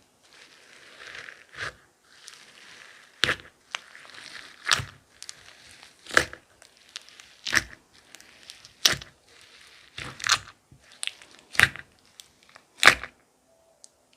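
Clay-mixed slime being pressed and worked by hand, giving a sharp pop about every second and a half with soft crackling squish in between.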